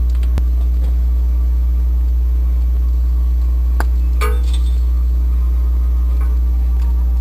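Loud steady low hum throughout, with a few sharp metallic clinks of tools and parts, about half a second in and twice around four seconds in, during removal of a Jeep 4.0L inline-six's intake and exhaust manifolds.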